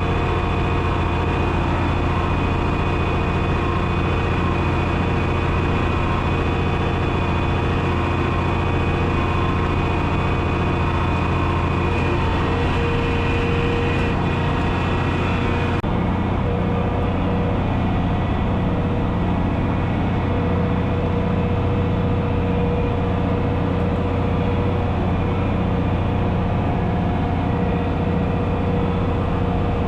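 John Deere 6030's six-cylinder diesel engine running steadily and loudly, a constant low hum with a stack of tones above it. About halfway through, the higher hiss drops away suddenly.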